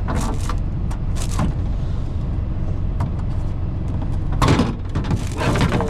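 Semi truck's diesel engine idling with a steady low drone. Short bursts of rustling and knocking handling noise sound over it, the loudest about four and a half and five and a half seconds in.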